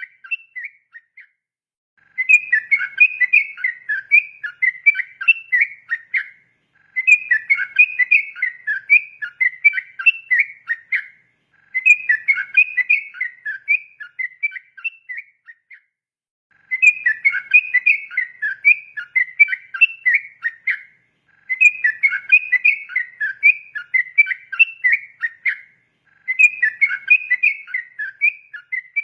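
Yellow-vented bulbul (trucukan) singing its long, rapid warbling 'ropel' song: bubbling phrases of about four to five seconds each, broken by short pauses, repeated about six times.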